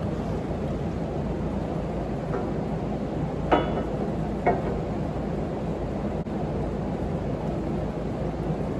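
Duramax V8 turbodiesel engine running steadily with a low drone. A few light metallic clinks sound near the middle.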